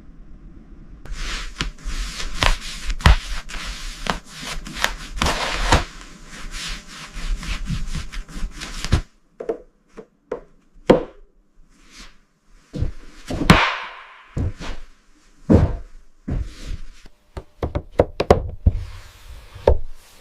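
A rasping scrape with sharp knocks running through it for about eight seconds, then stopping suddenly, followed by a string of separate knocks and taps at irregular intervals.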